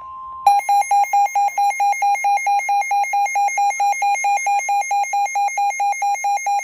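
Weather alert radio's alarm beeping in a fast, even pulse, a few beeps a second, set off by a tornado warning broadcast. About half a second in it takes over from a steady single tone.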